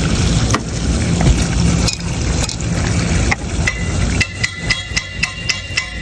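Repeated tapping on a condensate drain T-trap to loosen debris stuck inside it: sharp, slightly ringing knocks at about three a second, starting about four seconds in. Before the tapping, a steady rushing noise.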